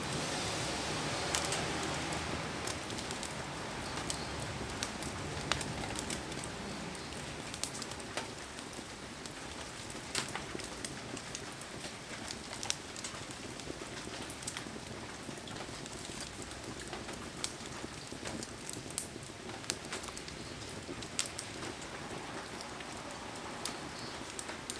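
Heavy rain falling steadily, a steady hiss with scattered sharp ticks and pops through it, a little louder in the first few seconds.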